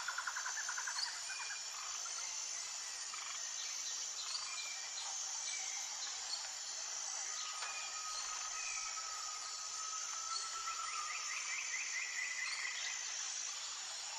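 Natural outdoor ambience of birds and insects: a high, steady insect-like chorus with rapid trilling calls near the start and again about eleven seconds in, and one long, steady whistled bird note about eight to ten seconds in.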